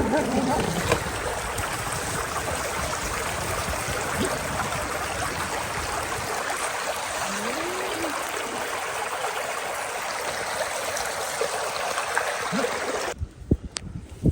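Running stream water, a steady rush that stops suddenly about thirteen seconds in, followed by a single sharp click.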